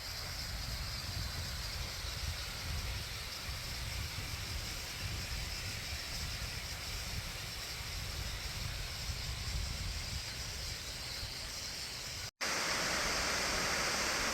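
Steady rushing of a waterfall, with a low, uneven rumble underneath. About twelve seconds in the sound cuts out for an instant and comes back louder and brighter.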